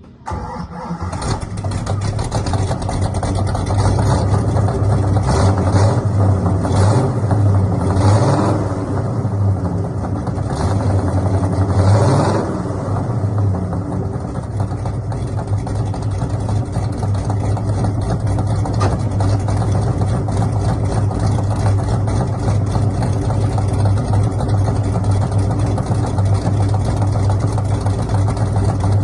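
1969 AMC AMX V8 cold start: the engine fires within the first second, is blipped several times over the next dozen seconds, then settles into a steady idle.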